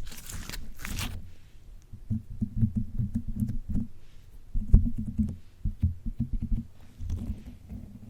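Slime squished and pressed on a microphone: a short sticky crackle at first, then dense clusters of low, muffled squishy pops.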